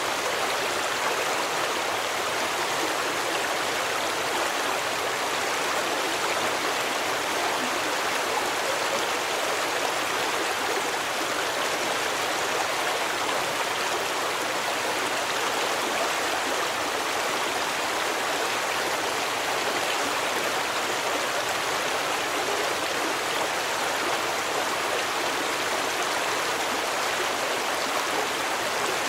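Stream water running over rocks: a steady, even rushing with no breaks.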